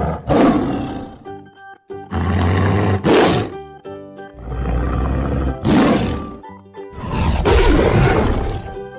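Jaguar roaring: a series of long, rough calls, one every two to three seconds, over light background music.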